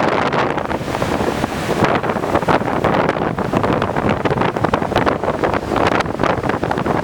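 Strong onshore typhoon wind buffeting the microphone in gusts, over the steady wash of heavy typhoon surf.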